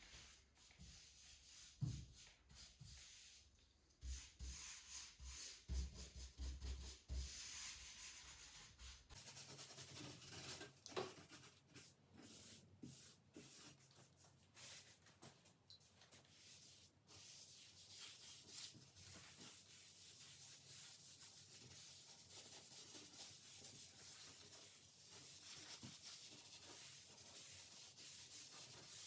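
Faint hand rubbing on oak wood in irregular scratchy strokes, as in sanding or rubbing in a finish. The background changes abruptly about nine seconds in.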